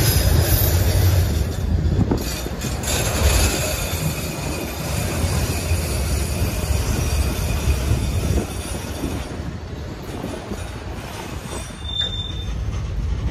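Freight cars rolling past close by, a steady rumble of steel wheels on rail that eases a little in level. A brief high-pitched wheel squeal comes near the end.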